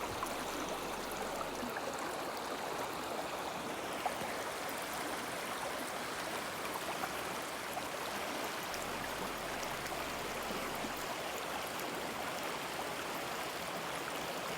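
River water flowing, a steady even rush with no letup. A faint click about four seconds in.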